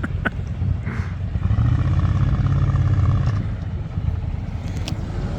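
A motor vehicle's engine running with a low rumble; near the end its pitch rises and then falls slightly.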